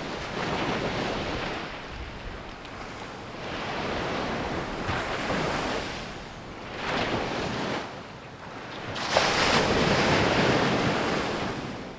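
Sea waves breaking and washing onto the beach in repeated surges, a bigger wave crashing about nine seconds in, then fading out near the end.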